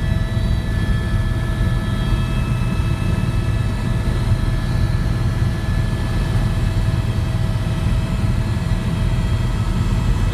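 Tour helicopter running steadily in flight: a deep, rapidly fluttering rotor and engine rumble with several steady whining tones above it.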